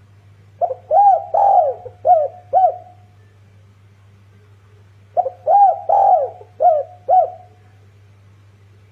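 Spotted dove (dekukur) cooing: two phrases of about five rounded, arching coos each, about four and a half seconds apart.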